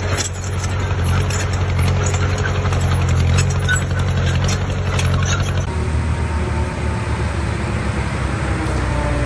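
Heavy construction machine's engine running with a steady low drone, under rapid metallic clicks and clanks. A little past halfway the sound changes abruptly to a smoother engine drone without the clanking.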